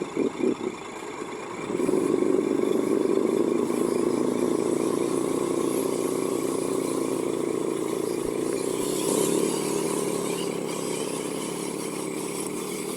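Radio-controlled construction model's drive running: a few short bursts of movement in the first second, then a steady run that fades slowly toward the end.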